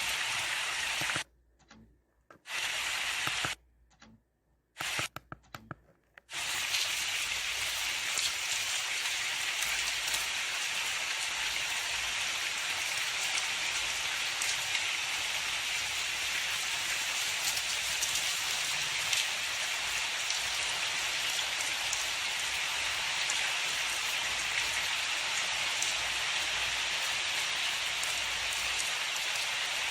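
Steady rain falling, an even hiss of drops. The sound cuts out to near silence three times, briefly, in the first six seconds.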